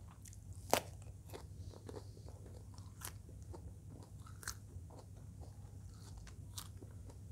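Biting and chewing raw green eggplant: a scattered string of sharp crunches, the loudest a little under a second in.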